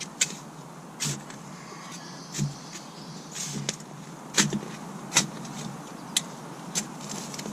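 Earth being dug and scraped into a pile: a series of short, sharp scrapes and strikes into soil, irregular, about one a second.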